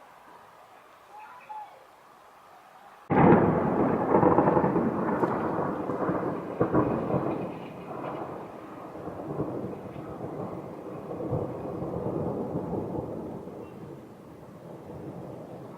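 Thunder: a sudden loud clap about three seconds in, then a long rolling rumble that swells again a few times and slowly fades.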